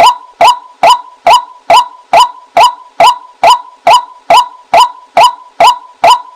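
Female white-breasted waterhen's 'kwak' call, the recording used as a lure call, repeated at an even rate of a little over two short notes a second.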